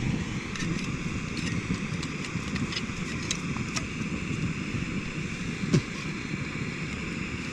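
Campfire crackling with scattered sharp pops, one louder pop nearly six seconds in, over a steady rushing noise of wind on the microphone.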